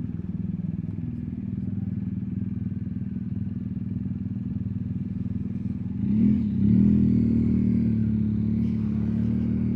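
BMW R1250GS Adventure's boxer-twin engine running at low road speed. About six seconds in it revs up briefly, then pulls louder at steady revs.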